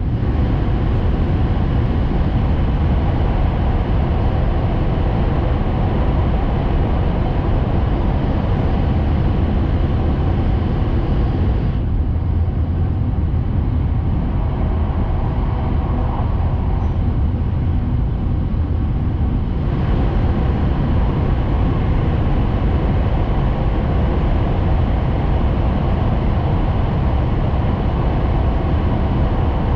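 Hayabusa Shinkansen train running at speed, heard from inside the passenger cabin: a steady, loud low rumble with hiss on top. For several seconds in the middle the hiss suddenly dulls, then comes back just as suddenly.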